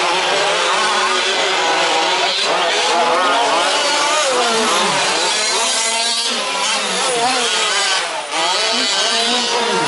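Several 1/5-scale RC trucks' small two-stroke petrol engines racing together, each pitch rising and falling as throttles open and close, with overlapping revs.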